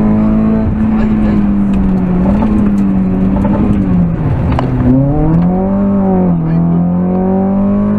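VW Lupo GTI rally car's 1.6-litre four-cylinder engine at high revs, heard from inside the cabin. Its pitch drops as the car slows for a sharp turn about four seconds in, then climbs again as it accelerates out, with a short dip near the end at a gear change. A few sharp ticks come during the turn.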